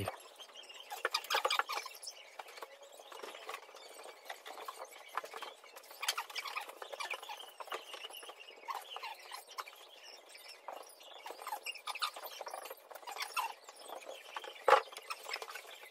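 Faint, irregular high chirping and squeaking calls, like small birds, mixed with scattered light clicks, and one sharper knock near the end.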